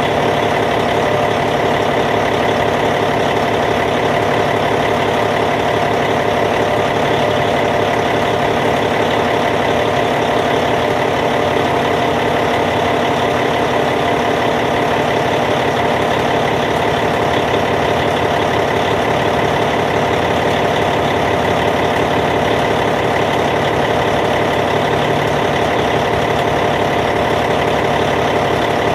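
Caterpillar C15 inline-six diesel engine in a Cat D8T bulldozer idling steadily, its tone unchanging throughout.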